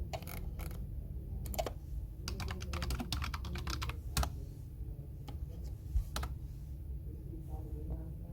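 Typing on a computer keyboard: a few scattered keystrokes, a quick run of keys about two to three seconds in, then single presses, over a steady low background hum.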